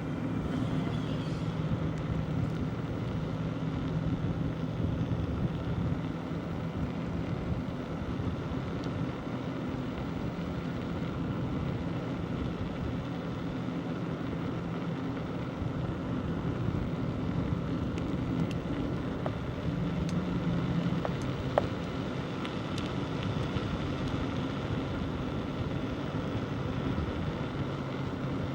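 Steady wind and rolling noise of a bicycle ride along a country road, with a low, steady hum underneath and one sharp click a little over twenty seconds in.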